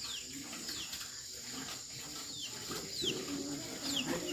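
Small birds chirping in the background, a string of short falling notes repeated about every half second.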